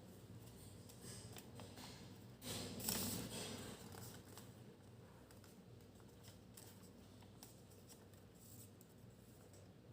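A sheet of origami paper being handled, folded and creased by hand: soft rustling, with a louder crinkle about two and a half seconds in that lasts about a second, then faint scattered crackles.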